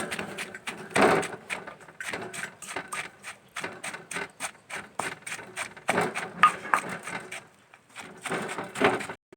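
Repeated wooden knocks from food preparation, about three a second, with brief pauses about two seconds in and near the end.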